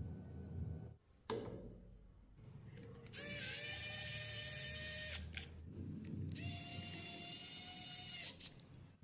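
A small motor whining at a high, steady pitch in two runs of about two seconds each, after a sharp click about a second in.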